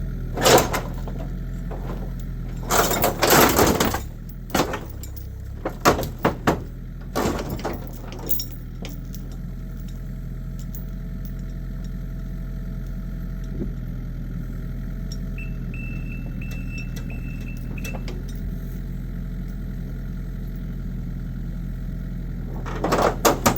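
Kubota excavator engine running steadily, with a series of loud metallic knocks and crunches in the first eight seconds as the crushed car body is pulled, and another clatter near the end.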